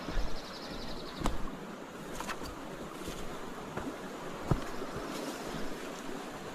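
Fast-flowing creek water rushing steadily, with a few sharp taps, the loudest about a second in and again near the middle.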